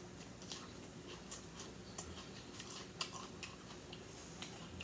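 Faint chewing of a mouthful of salad greens, with scattered small wet clicks and crunches at irregular moments.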